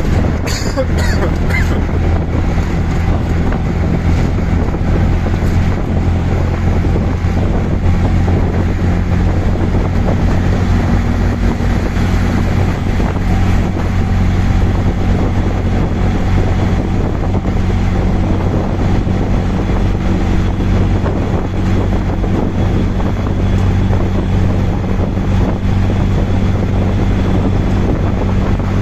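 Auto-rickshaw driving steadily, its small engine running with a low hum under wind rushing over the microphone in the open-sided cab. A few short high sounds, like a horn, come about a second in.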